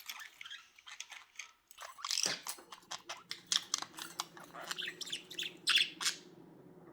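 Pet budgerigars chirping and chattering in quick, sharp bursts. A steady low hum starts about two seconds in and carries on under the chirps.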